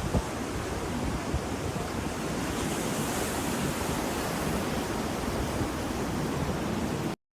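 Ocean surf washing steadily, with a brief rise in hiss around three seconds in. The sound cuts off abruptly to silence just before the end.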